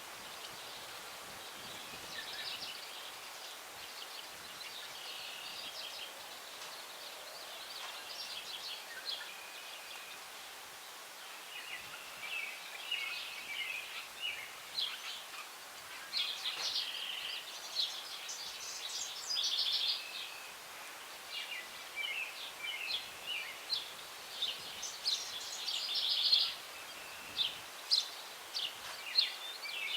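Several songbirds chirping and trilling in quick high phrases over a steady hiss of breeze through the tree branches. The birdsong is sparse at first and grows busier in the second half.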